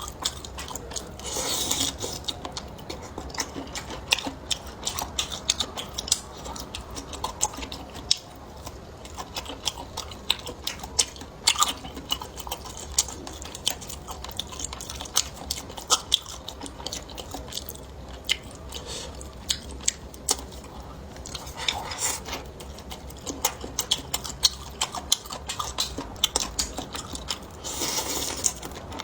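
A person chewing and biting food, with many short sharp crunching clicks and a few brief louder swells of mouth noise.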